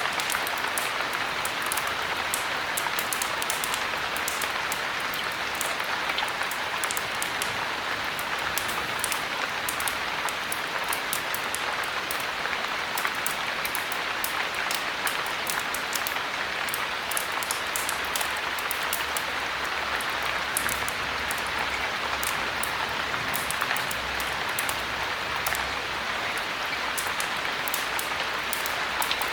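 Steady heavy rain falling, an even hiss with many small sharp ticks throughout.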